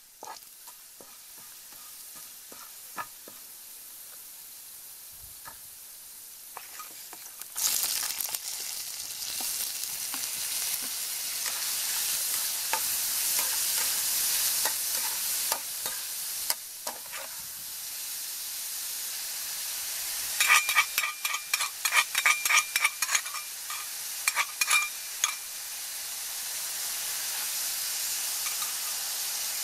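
Garlic sizzling in hot oil in a nonstick pan, stirred with a metal spatula. About seven and a half seconds in the sizzle jumps much louder as raw shrimp go into the oil. From about 20 to 25 s the spatula clacks and scrapes against the pan as the shrimp are tossed.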